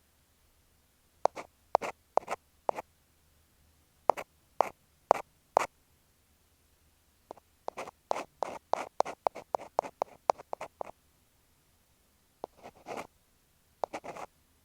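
Ear pick scraping on an earphone microphone, in short scratchy strokes: two groups of four, then a quick run of many strokes in the middle, then a longer scrape and one more near the end.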